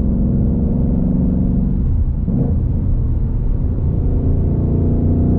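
Ford Mustang Mach 1's 5.0-litre Coyote V8, heard from inside the cabin, pulling steadily under way. About two seconds in the note breaks off briefly as a gear is changed on the six-speed manual, then the engine pulls again in the new gear.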